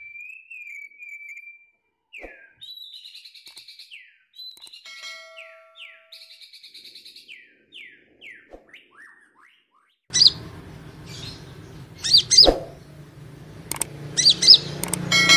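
Kolibri ninja (konin) song played as a lure call: high chirps, short trills and quick downward-sweeping notes in rapid series. About ten seconds in, a louder, noisier recording with a low hum underneath takes over, with sharp repeated high chirps and a couple of clicks.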